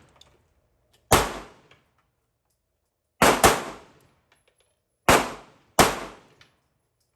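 Five handgun shots: one about a second in, a quick pair near three seconds, then two more about two-thirds of a second apart near the end, each with a short echo trailing off.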